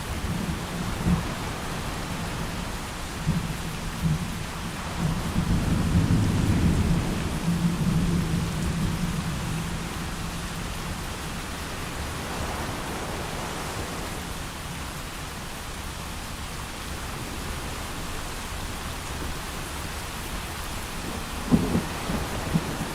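Steady heavy rain with thunder rumbling, swelling loudest about a quarter of the way through, then a short louder thump near the end.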